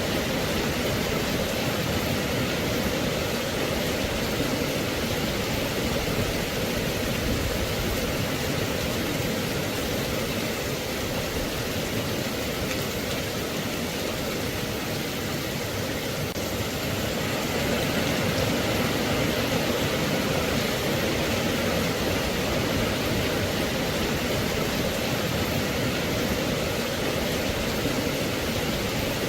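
Steady rain falling, an even hiss with no single drops or thunder standing out, a little louder from about halfway through.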